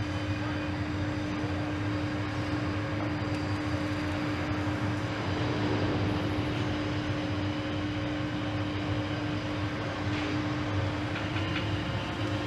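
A steady mechanical drone: a constant low hum with one held tone over an even wash of noise.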